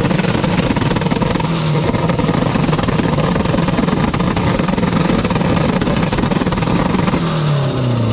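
A loud engine running steadily; near the end its pitch falls away as the revs drop.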